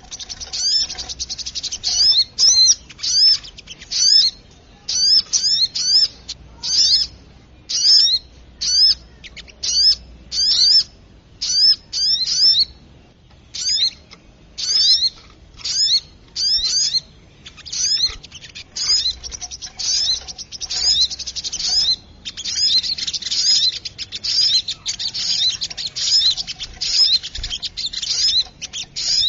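Bird-lure recording of the little spiderhunter (sogok ontong) calling in an agitated way: rapid, high, sharp sweeping chips in clusters about once a second, crowding into a near-continuous chatter in the last few seconds.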